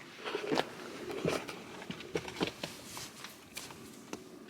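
Irregular crunches and scrapes of footsteps on gritty sand and rock, several short clicks a second.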